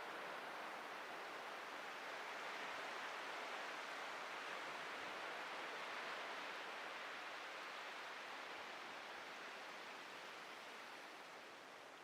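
Atlantic Ocean surf washing onto a beach: a continuous hiss of breaking water that swells in the middle and eases off near the end.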